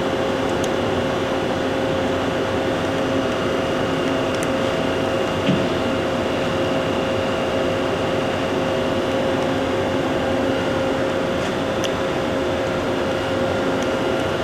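Hardinge Conquest SGET-42SP CNC lathe running with its live tool spinning: a steady machine hum with a constant whine, unchanging in level, and a few faint ticks.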